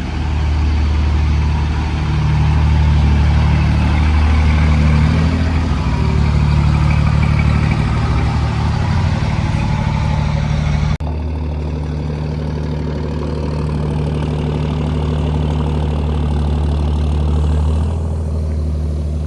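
Heavily modified diesel pickup engine running steadily on a chassis dyno after a power run, with a deep, even low rumble. Its sound drops out briefly about eleven seconds in, then continues slightly quieter.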